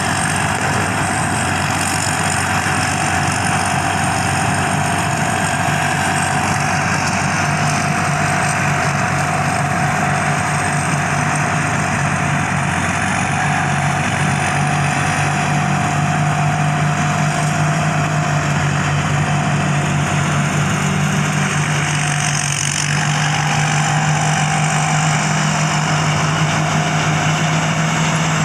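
Combine harvester's engine running steadily with a constant drone.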